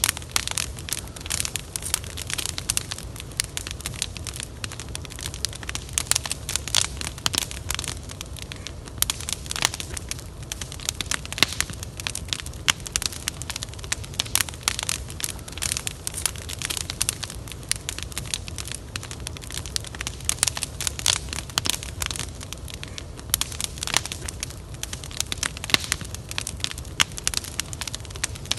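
Campfire crackling steadily, with frequent sharp irregular pops over a low, steady rumble.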